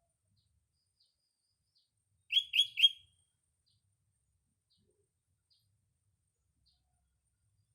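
Sooty-headed bulbul (kutilang) calling: a burst of three quick, loud notes a little over two seconds in. Faint high ticks are scattered through the rest.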